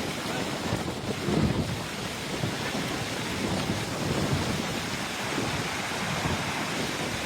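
Wind gusting over the microphone above choppy river water as a storm blows up, with a steady wash of waves.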